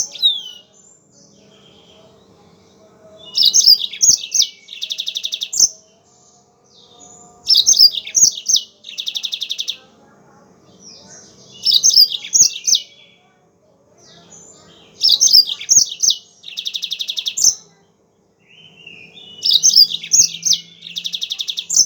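Yellow-fronted canary (Mozambique canary) singing: five song phrases about four seconds apart, each a few quick whistled sweeps ending in a fast buzzy trill. A faint steady hum lies underneath.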